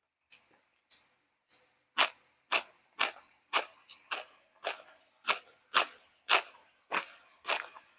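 Close-up crunchy chewing of crispy deep-fried tilapia belly, a few faint bites at first, then loud crunches about twice a second from about two seconds in.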